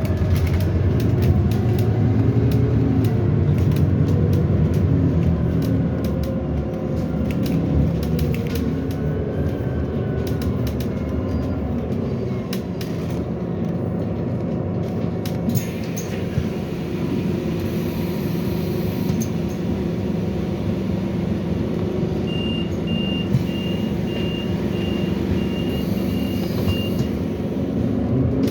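Scania Citywide CNG city bus heard from inside: the engine note rises in the first few seconds as it picks up speed, then it runs on steadily. In the second half come two short hisses of air, and near the end a row of short high beeps, about two a second.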